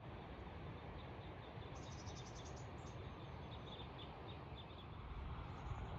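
A small bird chirping in quick runs of short high notes, about two seconds in and again in the second half, over a steady background hiss and low rumble.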